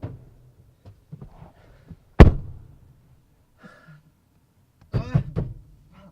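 A few light knocks, then one loud heavy thump with a short ringing tail about two seconds in. About five seconds in comes a brief strained cry from a person.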